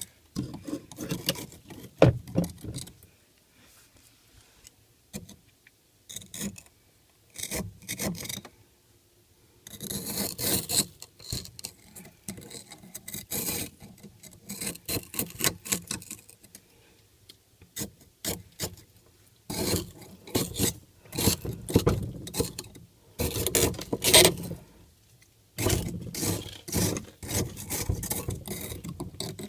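Ice being scraped off the frosted-up freezer compartment of an old mini fridge: rasping scrapes in bursts of quick strokes with short pauses between, and a sharp knock about two seconds in.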